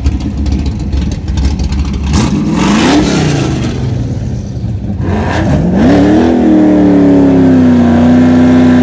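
A V8 drag car's engine idling with a low rumble, then briefly revved up and back down. About five and a half seconds in it revs up again and holds steady at high revs for several seconds.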